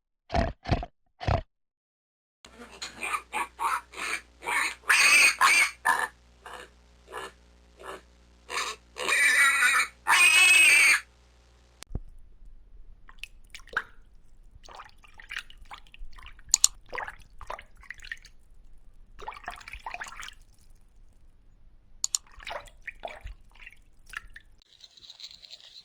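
A run of short, loud animal calls, packed closely from a few seconds in until about halfway, then only scattered faint clicks and small noises.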